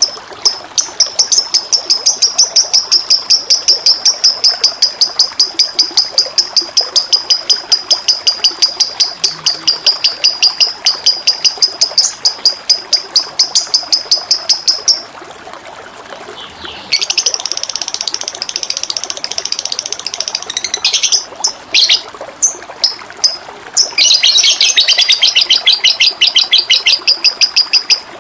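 A songbird singing long runs of high, rapidly repeated chirps, about three or four a second; it breaks off midway, gives a faster, buzzier trill, then a scattered few notes and another quick run near the end. Beneath it, a steady trickle of running water.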